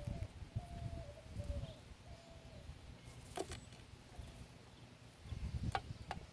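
A dove cooing: a few low, drawn-out coo notes in the first couple of seconds, over a low rumble. Two sharp clicks follow, one about halfway through and one near the end.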